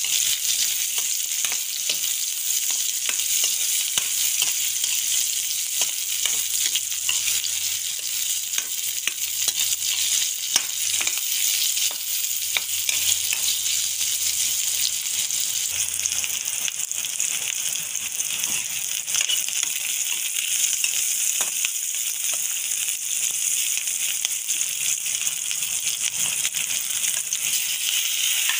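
Garlic, onion and ginger sizzling in hot oil in a steel wok, with a metal ladle scraping and clinking against the pan as they are stirred.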